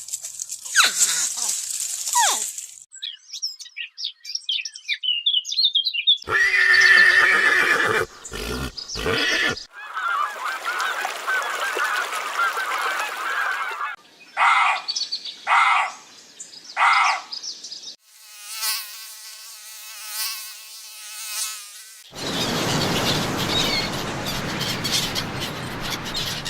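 A run of short animal-call recordings spliced one after another with abrupt cuts, mostly bird calls and honks: quick chirps, pitched calls, three short calls in a row and a pulsing call.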